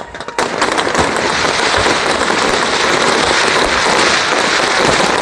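Fireworks display going off: a sudden loud start about half a second in, then a dense, unbroken stream of rapid bursts.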